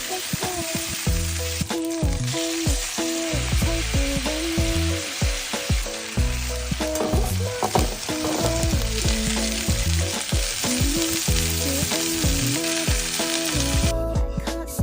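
Food sizzling as it fries in a pan: a steady hiss that stops shortly before the end, over background music.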